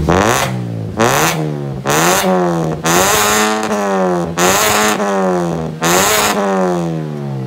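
Mazda 2 Skyactiv engine blipped about six times through an ORD full aftermarket exhaust system. Each rev rises sharply, then falls back toward idle.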